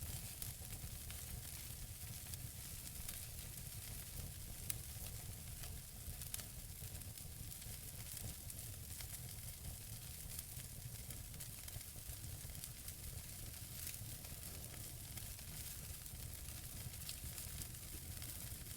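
Natural wood fire burning in a fireplace: a steady hiss and low rumble with frequent small crackles, and one sharper pop about five seconds in.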